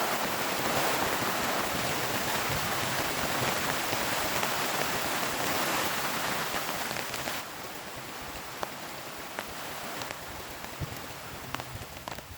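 Heavy rain pouring in a dense, steady hiss. About seven seconds in it drops suddenly to a lighter patter with separate drops ticking.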